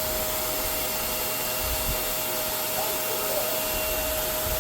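Vacuum cleaner running steadily, an even rushing hiss with a constant whine, as it sucks up cut hair from the floor.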